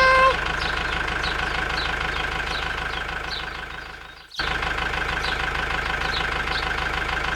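Mini tractor engine running steadily, with a brief pitched tone at the very start; the engine sound cuts out for a moment a little over four seconds in, then carries on.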